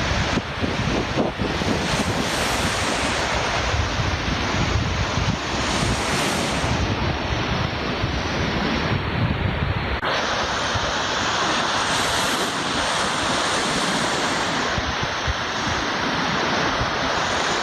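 Black Sea surf breaking on the shore, with strong wind buffeting the microphone as a heavy low rumble. About ten seconds in the wind rumble drops suddenly, leaving the steady hiss of the waves.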